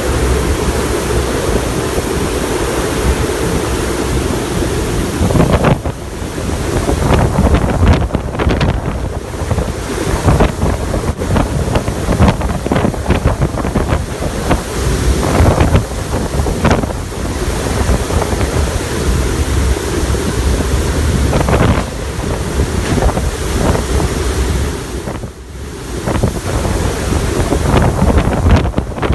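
Hurricane-force wind gusting hard and buffeting the microphone: a loud, uneven rush that swells and eases, dropping briefly in a lull near the end.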